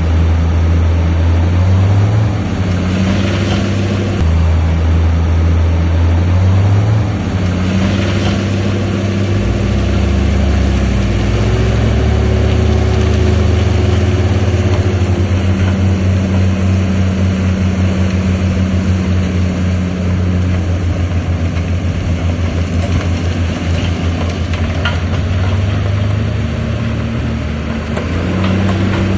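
Heavy diesel engine of earthmoving machinery running steadily, its pitch stepping up and down several times as the load changes.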